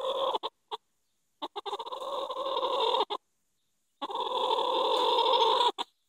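A hen making long, harsh, pulsing squawks of protest at being touched: the tail of one call, then two more, each growing louder over nearly two seconds, with short gaps between.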